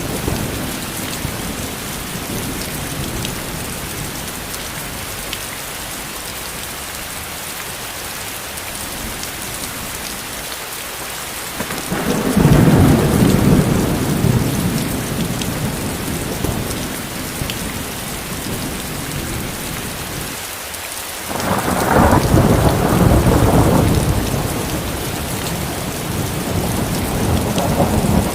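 Steady rain falling, with thunder rumbling twice, about halfway through and again later, each roll lasting a few seconds.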